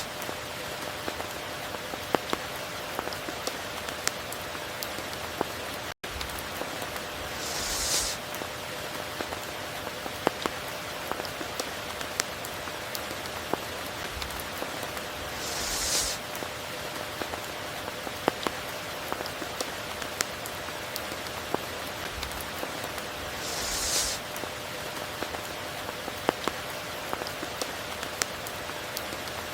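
Steady heavy rain, an even hiss scattered with sharp drip ticks. A brief, higher hissing swell comes about every eight seconds, three times.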